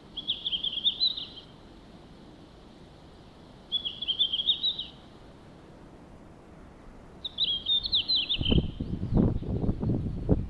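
Red-flanked bluetail singing: three short, high phrases, each about a second long, a few seconds apart. Over the last two seconds a loud low rumbling noise comes in.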